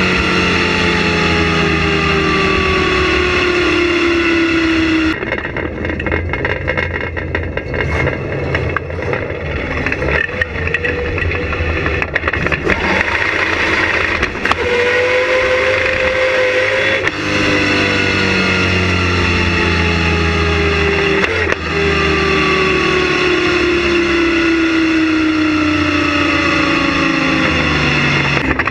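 Ford Focus engine running under way with a K&N intake filter. Its note slides slowly down in long glides several times.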